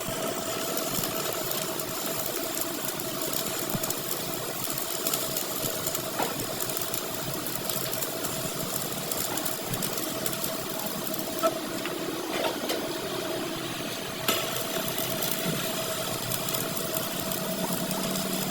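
A workshop machine running steadily with a constant hum, a few sharp clicks or knocks standing out at intervals.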